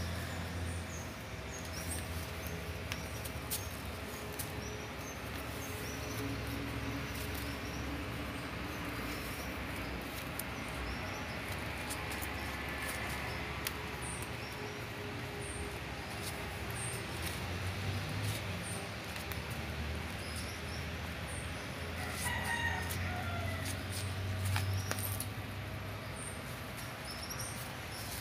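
Steady background hum with faint, short, high chirps of small birds repeating about once a second. A brief falling call comes about three-quarters of the way through.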